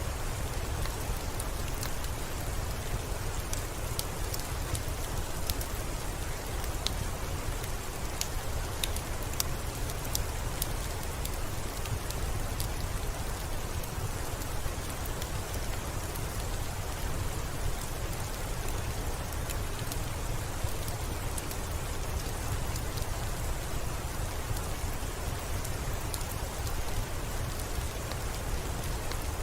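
Steady rainfall: a dense, even hiss with a deep rumble underneath and scattered sharp ticks.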